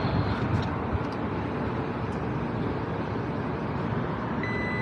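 Steady outdoor noise with a few faint clicks about half a second in, then a high-pitched electronic beep starting near the end.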